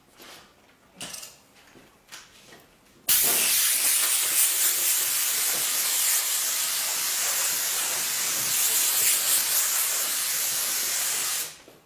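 A few light knocks, then a loud, steady hiss-like saw noise that starts suddenly about three seconds in and cuts off just before the end. This is the track saw running along the guide rail and trimming the new splinter-guard strip to the blade line.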